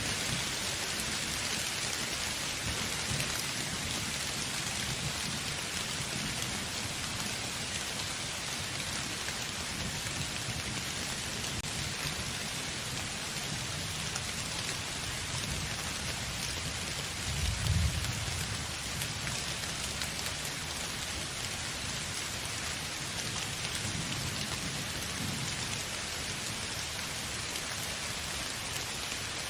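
Steady rain falling as an even hiss, with low rolls of distant thunder underneath. The loudest roll comes a little after halfway through.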